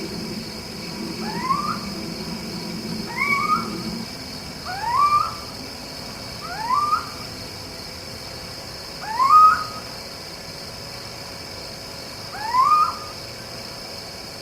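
Young owl calling: six short calls that each slide upward in pitch, spaced one to three seconds apart. A faint steady high hiss runs underneath.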